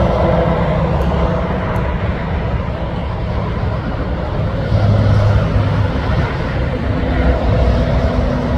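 Heavy truck engine running steadily, briefly louder about five seconds in.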